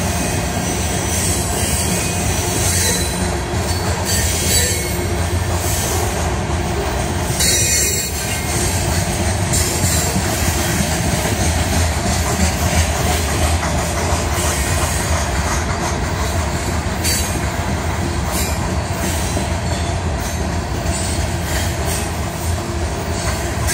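Covered hopper cars of a long freight train rolling past close by: a steady loud rumble of steel wheels on rail with scattered clicks, and a thin steady wheel squeal running under it.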